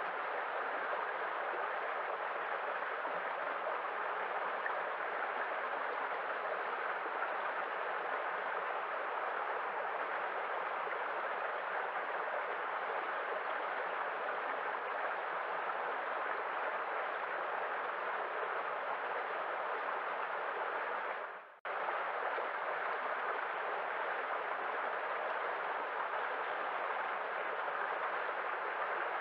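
Waterfall: a steady, even rush of falling water, with one brief dip in level about two-thirds of the way through before it returns unchanged.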